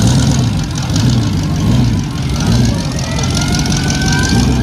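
Pontiac Firebird Trans Am's V8 engine idling, a low beat swelling about twice a second. A faint high tone rises and falls over the last second and a half.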